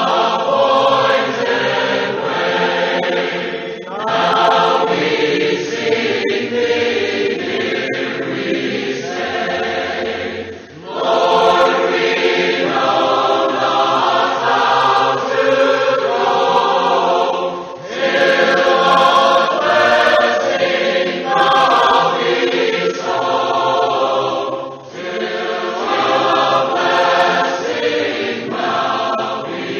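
Choir singing a hymn in long sung lines, with a short break between lines about every seven seconds.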